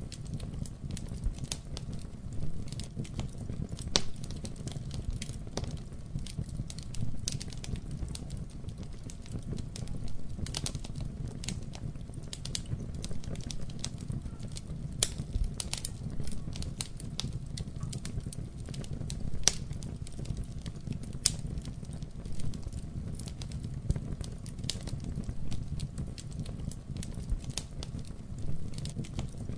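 Wood fire burning in a fireplace: a steady low rumble of flames with frequent irregular crackles and occasional sharper pops.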